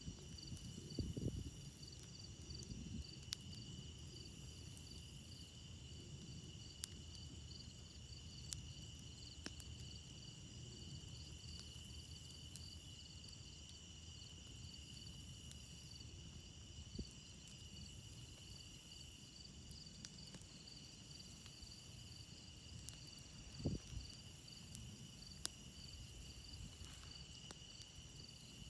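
A steady chorus of crickets trilling at several high pitches, over a low rumble. A campfire gives scattered sharp pops and crackles, with a louder pop near the end.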